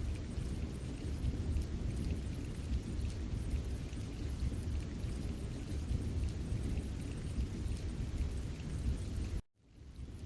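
Strong wind buffeting the microphone, a steady low rumble. It cuts out sharply for a moment near the end.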